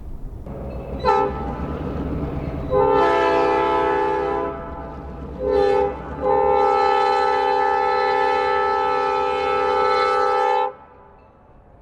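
Diesel locomotive's multi-note air horn blowing a sequence: a quick toot, a long blast, a short one and a final long held blast that cuts off suddenly, the pattern blown for a grade crossing. A low engine rumble from the passing train runs underneath.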